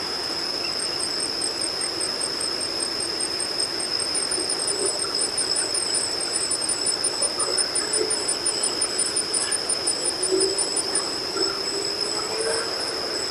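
Outdoor ambience with insects: a steady high-pitched drone over a hiss, and a rapid chirping of about four chirps a second that stops near the end.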